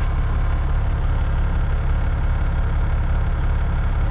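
Caterpillar 3406E inline-six diesel of a Freightliner FLD120 truck idling steadily, with a deep, even drone.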